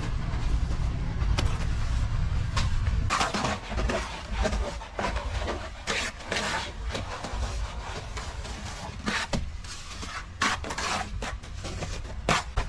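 Construction-work noise: irregular knocks and scrapes over a low rumble that fades about three seconds in.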